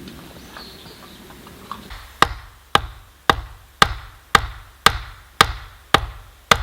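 Repeated blows of a hand tool on wood: nine sharp strikes starting about two seconds in, evenly paced at about two a second.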